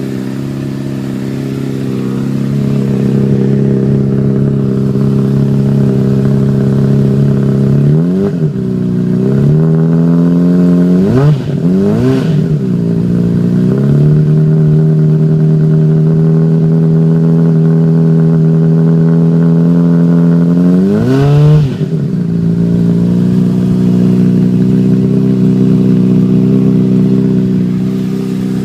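2008 Honda CBR600RR's inline-four running at idle through a Yoshimura RS-5 slip-on muffler. The throttle is blipped a few times, about eight to twelve seconds in, and once more about twenty-one seconds in, each rev rising and falling quickly. Between the later blips the idle sits a little higher before settling back.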